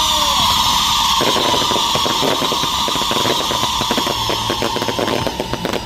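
Fireworks going off: a long whistle slowly falling in pitch, joined about a second in by a dense, rapid crackle of exploding firecrackers.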